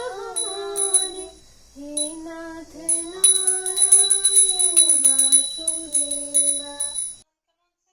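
Puja hand bell rung continuously with rapid strikes, while a woman and a child sing a devotional chant in long held notes. Both stop abruptly near the end.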